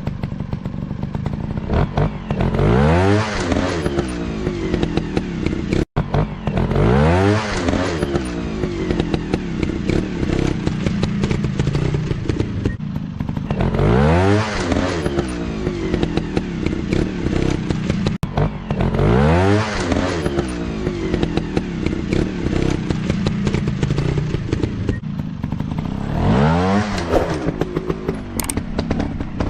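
Dirt-bike engines running and revving on a trail track. The engine pitch sweeps up with each burst of throttle, about every five seconds, over a continuous engine drone with clattering and knocking.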